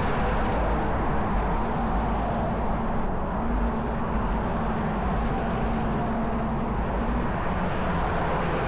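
Steady rumble of freeway traffic with wind buffeting the microphone, and a faint steady whine under it.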